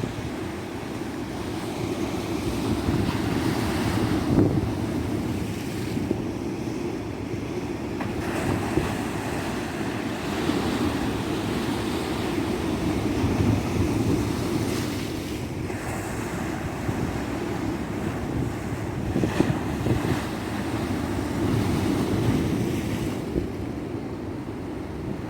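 Ocean surf breaking and washing up a beach, the noise swelling and easing every few seconds, with wind buffeting the microphone.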